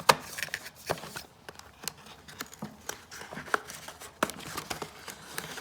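Small plastic device parts being handled: irregular sharp clicks and taps with light rustling, the loudest click just after the start.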